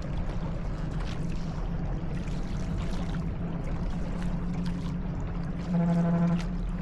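Small boat moving on a river, with water splashing and trickling along the hull and scattered light knocks over a steady low hum. A louder, briefly held pitched tone comes near the end.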